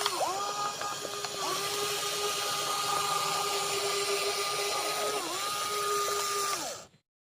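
Small electric motors of a WL16800 RC toy excavator whining steadily. The pitch dips briefly three times as the load changes, then winds down and stops near the end.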